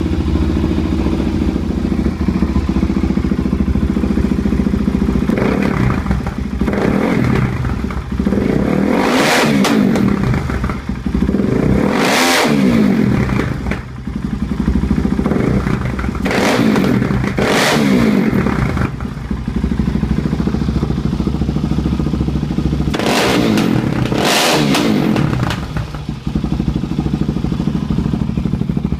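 Suzuki DR-Z400's single-cylinder four-stroke engine idling through a Two Brothers aftermarket exhaust, blipped up and back down about nine times, several blips in quick pairs, returning to idle between them.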